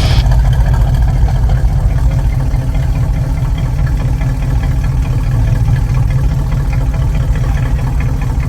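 A car engine idling with a steady, loud, low rumble.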